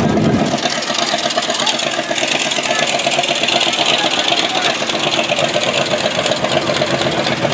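A car engine idling steadily, with an even pulsing beat, over a background hiss.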